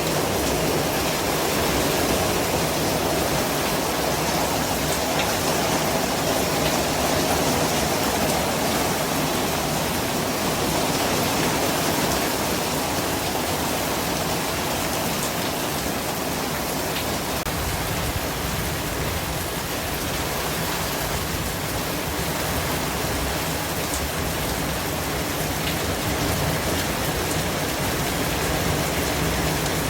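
Steady white noise: an even hiss spread across the whole range, unbroken and without any tones or clicks.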